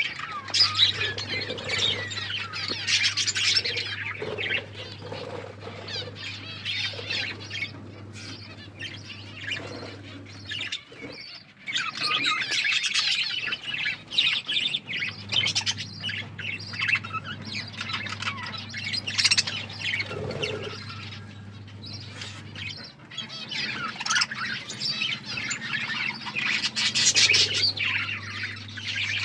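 A group of budgerigars chattering and chirping continuously, with busier, louder bursts of warbling. Under it a steady low hum cuts out and comes back twice.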